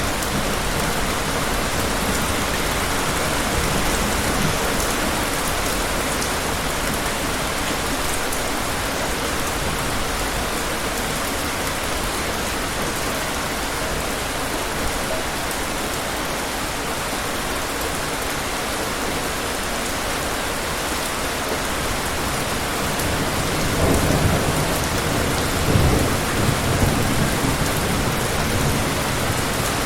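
Steady heavy rain falling, with a low rumble of thunder swelling up about three quarters of the way through.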